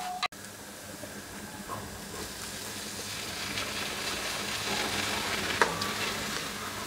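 Garlic and egg sizzling in hot oil in a nonstick pan while a spatula stirs, the sizzle growing louder as diced tomatoes go into the pan partway through. One sharp tap of the spatula on the pan comes near the end.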